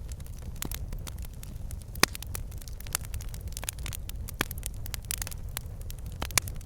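Wood fire crackling and popping over a steady low rumble of flames, with irregular sharp pops, the loudest about two seconds in.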